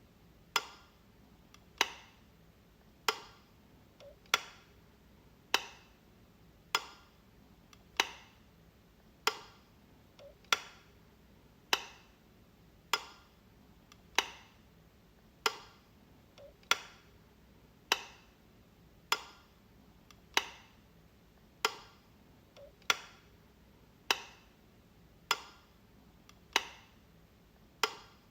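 Light switch clicking again and again, one sharp click about every 1.2 seconds, with a much fainter small click every six seconds or so.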